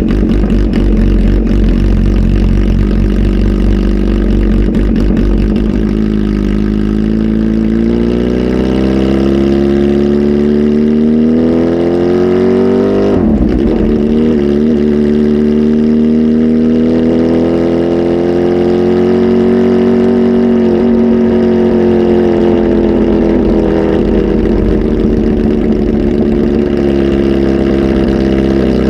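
Supercharged 998 cc inline-four engine of a Kawasaki Z H2 SE with a full aftermarket exhaust, running low and even at first. About six seconds in the revs climb steadily, drop sharply, climb again more slowly and then slowly fall away toward the end.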